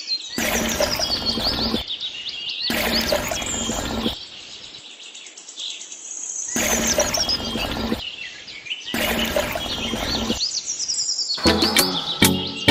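Birds chirping and singing steadily, with four stretches of gritty hissing noise each lasting a second or two.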